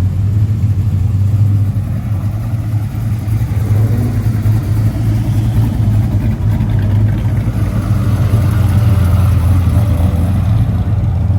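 A car engine running steadily with a deep rumble.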